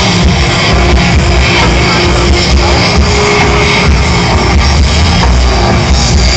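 Loud rock music with electric guitar and drums, played steadily throughout.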